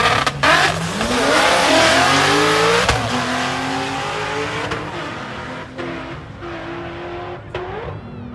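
Drag-racing car accelerating hard down the quarter-mile strip, its engine note climbing in pitch and dropping back at each gear change, about four shifts, and fading as it runs away into the distance.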